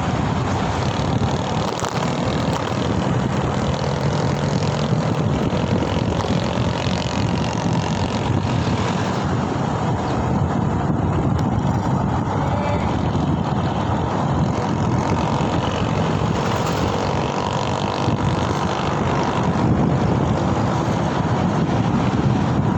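Steady rush of wind and road noise during a ride, with the engines of surrounding traffic running underneath.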